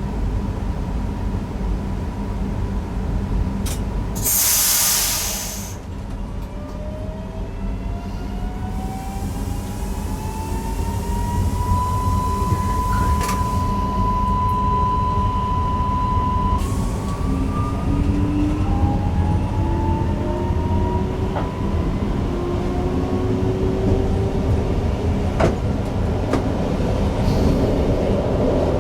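Newag Impuls EN63 electric multiple unit heard from its driver's cab: a short burst of air hiss about four seconds in, then the traction drive's whine rising in pitch in stages as the train accelerates, over a steady running rumble that grows louder.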